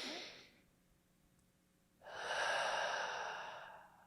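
A person taking a deep breath: a short breath at the very start, then a longer, louder exhale from about two seconds in, lasting nearly two seconds.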